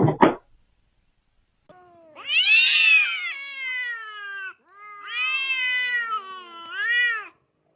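A cat meowing in three drawn-out calls, each rising then falling in pitch, the last one short. A brief burst of noise comes at the very start.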